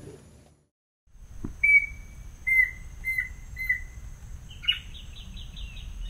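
A bird's whistled call. It opens with one held whistle, then three shorter whistles, each dropping in pitch at the end, and near the end a fast run of higher, quicker notes.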